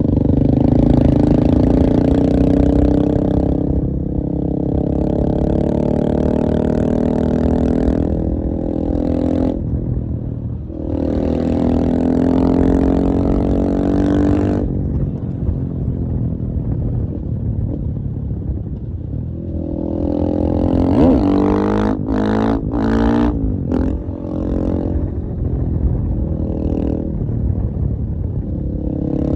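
KTM 450 EXC-F's single-cylinder four-stroke engine running, revved up and held several times with lower running between. A little after twenty seconds come a few quick, sharp throttle blips before it settles back.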